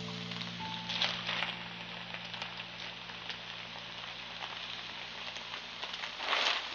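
Fried rice sizzling in a hot wok as it is stirred and turned with a spatula, with louder swells of the frying about a second in and near the end.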